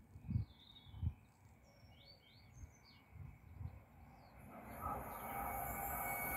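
Small birds chirping, with a few low thumps in the first second. From about four and a half seconds in, a rising hiss and rumble from the rails as a class 350 electric multiple unit approaches along the line.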